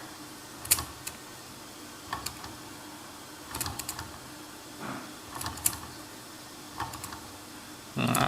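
Bing live-steam toy engine making short, irregular clicks and spits as it tries to start but does not yet run, with its cylinder still holding condensed water.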